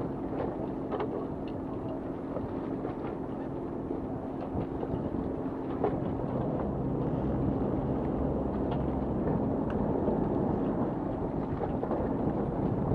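Fishing boat's engine running steadily under wind and water noise, a little louder from about six seconds in.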